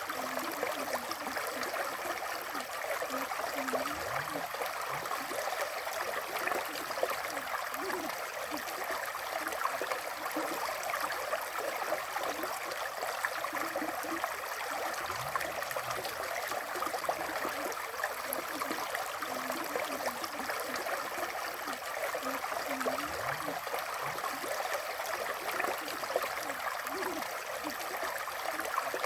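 River water flowing steadily, a constant even rush of moving water.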